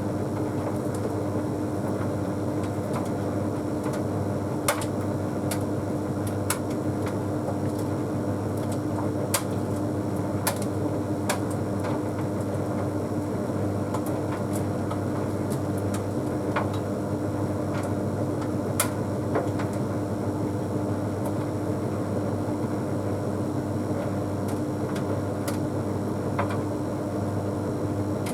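Bosch Series 6 WQG245R9GB heat pump tumble dryer running early in an Easy Care cycle: a steady hum with a constant tone, and occasional sharp clicks from the half load tumbling in the drum.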